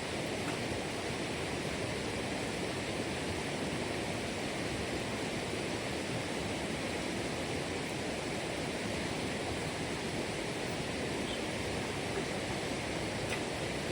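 Steady rush of running water, an even noise with no change.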